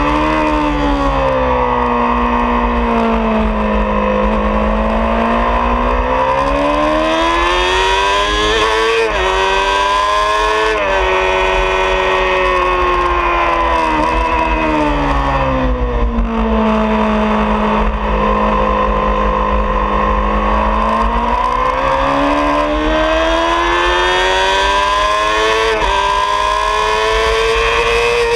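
2003 Honda CBR600RR's inline-four engine at full song, heard from onboard over steady wind rush. The revs fall as the rider brakes and shifts down for a corner near the start, climb with quick upshifts, fall again into a slower corner and hold low through it, then climb through the gears once more near the end.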